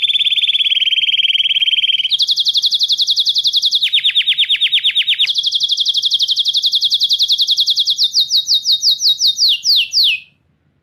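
Songbird trills: dense, very fast series of high repeated notes that switch abruptly between several trill patterns, the kind of 'tembakan' phrases used as a masteran for training cage birds. Near the end the trill slows into a few separate falling notes and stops.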